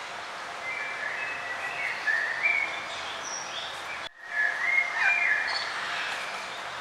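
Songbird singing quick chirping, sliding phrases over a steady outdoor hiss. The whole sound cuts out for a split second about four seconds in, then the song picks up again.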